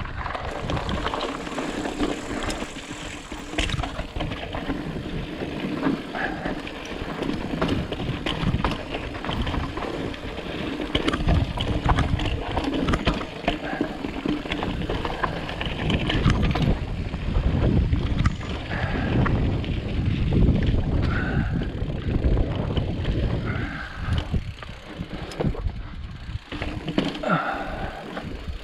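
Ibis Ripley full-suspension mountain bike being ridden over rough rock: tyres rolling and the bike clattering, with constant small knocks and rattles.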